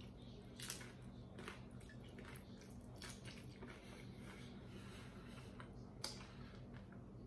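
Faint close-miked chewing and wet mouth sounds as a homemade hard-shell taco is eaten, with soft smacks and finger-licking, including a sharper smack about six seconds in. A low steady hum lies underneath.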